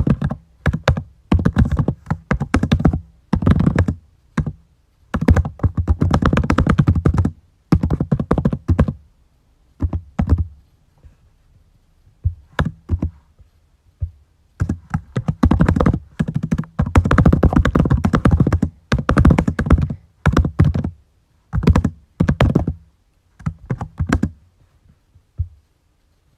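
Typing on a computer keyboard: quick runs of key clicks with short pauses between them, thinning out near the end.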